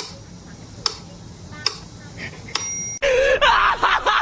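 A light tick with a short high ring, repeating about once a second, then about three seconds in a loud, rapid run of pitched cries.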